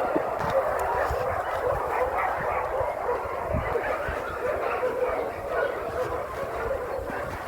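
Several dogs barking continuously, their barks overlapping into a steady din.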